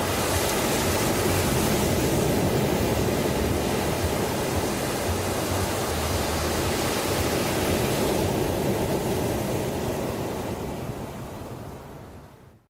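Ocean waves washing on a shore, a steady rushing noise that swells and eases, fading out to silence over the last couple of seconds.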